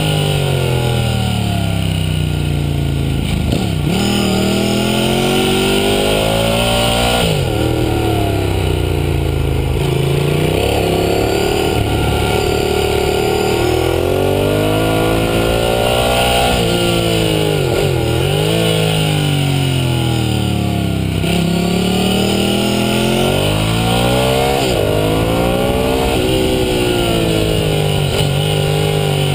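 Ducati Hypermotard 1100's air-cooled L-twin engine, heard close up from the bike's belly, revving hard as it accelerates out of corners and dropping back on the brakes. Its pitch climbs and falls again and again, under a steady rush of wind.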